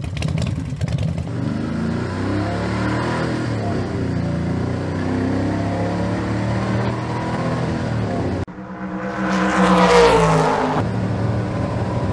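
Car engine sound running steadily. About eight seconds in it cuts to a louder pass-by that rises and falls in pitch.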